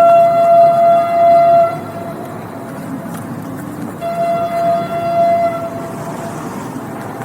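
Train horn sounding two long blasts, each about two seconds: one right at the start and another about four seconds in, over the steady rumble of the running train.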